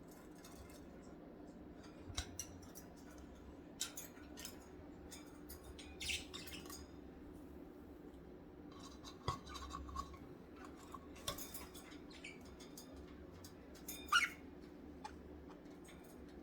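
Pet budgerigars in a quiet room giving a few short, scattered chirps, one rising chirp near the end, among sharp little clicks, over a steady low hum.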